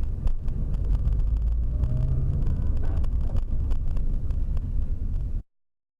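Car driving, heard from inside the cabin through a dash camera's microphone: a dense low rumble of engine and road noise with scattered light clicks and knocks. It cuts off suddenly near the end.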